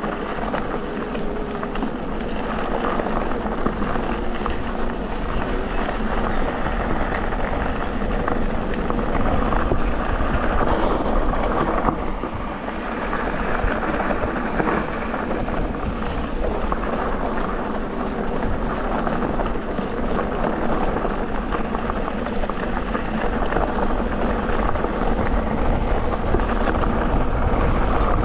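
Electric mountain bike ridden along a dirt trail: a steady rush of tyre and trail noise with a low rumble.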